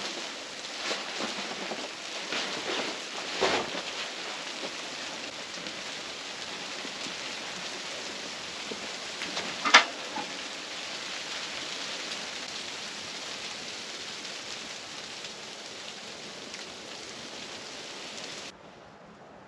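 Snow pattering steadily on tent fabric, with a few rustles early on and one sharp click about ten seconds in. The patter drops away suddenly near the end.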